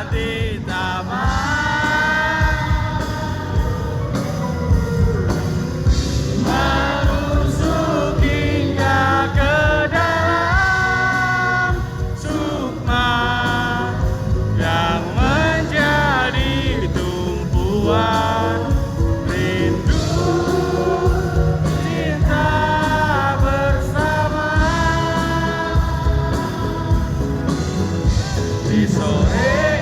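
A band playing a song live, with a sung vocal line over continuous full-band accompaniment.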